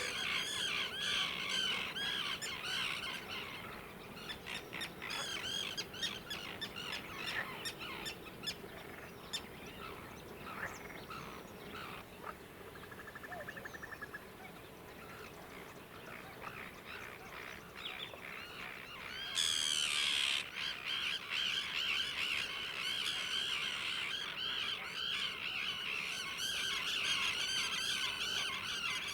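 Many wild birds singing and calling together in a summer dawn chorus, chirps and warbles overlapping, with a rapid trill in a quieter stretch near the middle and a brief louder burst about two-thirds through.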